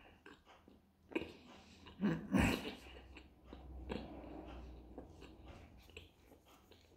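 Close mouth sounds of a man chewing a pljeskavica, a grilled meat patty in a soft bread bun: small wet clicks and soft noise, with one louder burst a little over two seconds in.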